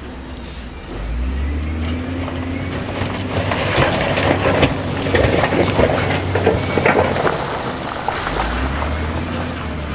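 A heavy construction machine's diesel engine running with a steady low hum. From about three seconds in, stones clatter and scrape in a dense rattle of knocks for several seconds, then ease off near the end.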